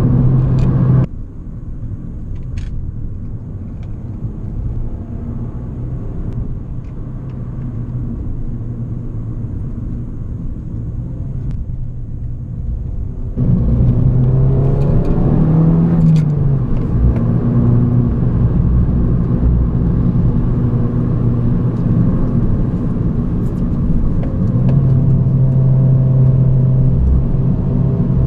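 Abarth 595 Competizione's 1.4-litre turbocharged four-cylinder engine running while driving, a steady engine drone over road noise. The sound drops suddenly about a second in and comes back just as suddenly about halfway through, followed by a brief rise and fall in engine pitch.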